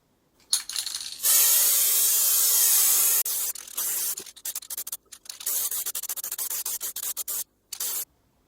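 Hissing, scraping work noise from refinishing a cello. It holds steady for about two seconds, then breaks into a run of short, choppy strokes and stops shortly before the end.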